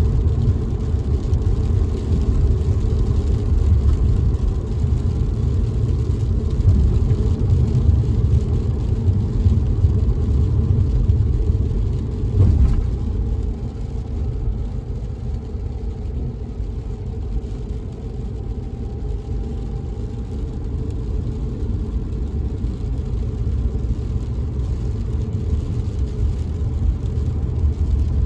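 A car's steady low road and engine rumble heard from inside the cabin while driving, with one short knock about twelve seconds in, after which the rumble is a little quieter.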